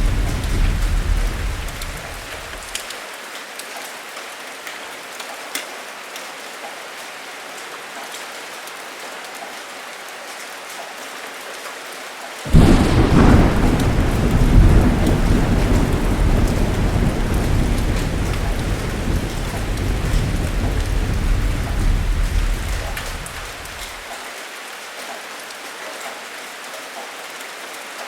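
Steady heavy rain in a thunderstorm. A low rumble of thunder dies away in the first few seconds, then about halfway a sudden loud thunderclap breaks and rolls on for about ten seconds before fading, leaving the rain alone.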